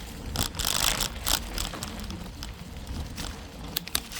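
Bicycle rolling along a dirt trail: tyre crunch and rattling over the ground with a steady low rumble, and a few louder gusts of noise in the first second and a half.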